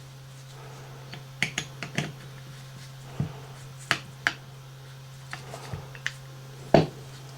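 Small metal brake parts being handled and set down on a workbench: about a dozen irregular sharp clicks and taps, the loudest near the end, over a steady low hum.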